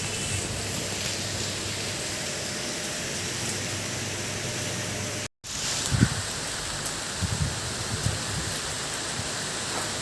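Steady rain falling, an even hiss of drops. It cuts out completely for a split second about halfway through, then resumes, with a few low bumps after.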